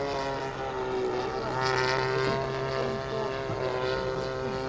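Radio-controlled model aircraft engine running at steady high revs, one even engine note with its propeller.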